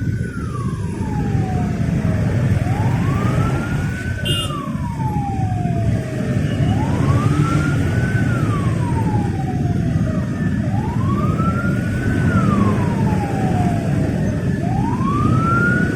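Emergency vehicle siren wailing in slow, even cycles, each rising over about a second and a half and falling away over about two and a half. There are about four wails, over the steady drone of motorcycle engine and rush-hour traffic.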